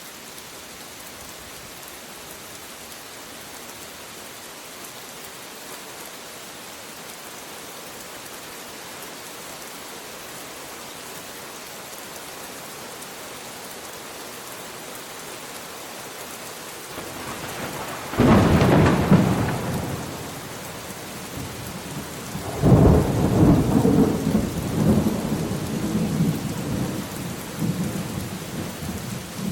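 Steady rain, then a sharp thunderclap about 18 seconds in and, a few seconds later, a long peal of thunder that rumbles on in several surges to the end.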